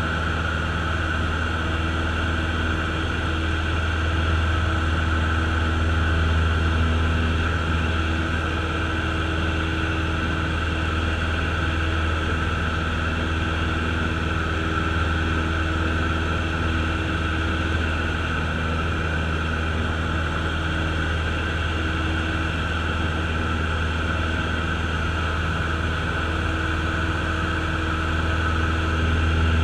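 Cessna light aircraft's piston engine and propeller droning steadily, heard from inside the cabin, swelling slightly in level a few seconds in and again near the end.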